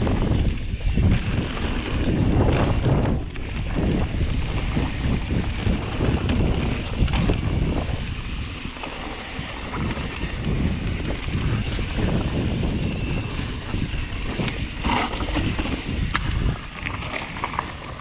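Wind rushing over the microphone of a camera riding a mountain-bike descent, with dirt-trail tyre noise and the bike rattling over bumps, heard as frequent short knocks.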